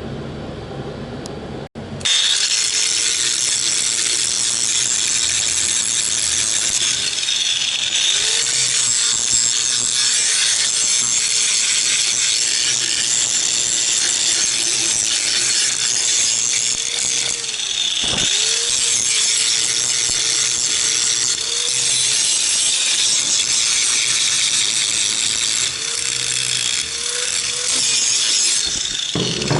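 An electric power tool working metal, a loud steady hiss with a motor note under it that sags and recovers several times as the tool is loaded and eased off. It starts about two seconds in and breaks off for a moment about eighteen seconds in.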